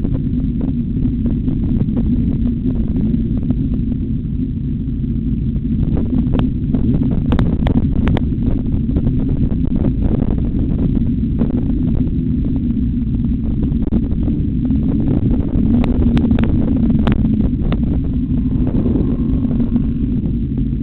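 Motorcycle engine running hard on a race track, its pitch shifting with throttle, under heavy wind rush on the onboard microphone. A few brief sharp pops come in clusters around the middle and again near the end.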